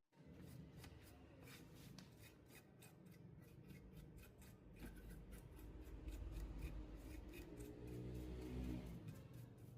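Faint, irregular small clicks and rubbing, like small parts or tools being handled, over a low hum.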